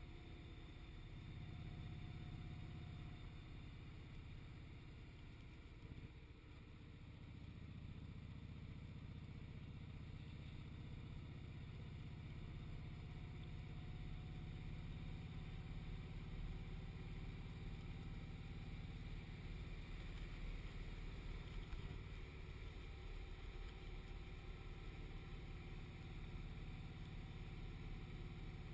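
Motorcycle engine and road noise while riding, a steady low rumble. It dips briefly about six seconds in, then slowly grows louder.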